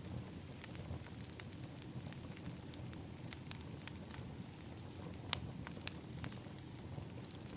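Wood fire in an outdoor fire pit crackling: irregular sharp pops over a low, steady rumble of burning. The loudest pop comes a little past five seconds in.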